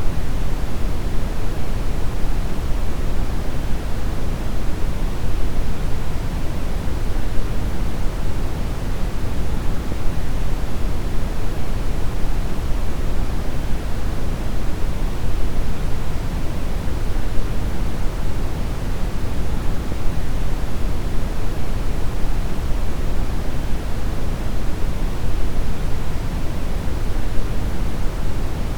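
Steady brown noise: an even, unbroken rumbling hiss, strongest in the low end and falling away toward the highs.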